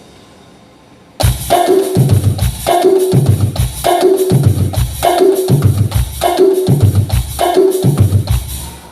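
Drum pattern played on a Roland SPD-11 electronic percussion pad through a stage sound system: kick, snare and a pitched tom-like sound in a beat that repeats about once a second. It starts about a second in and stops just before the end.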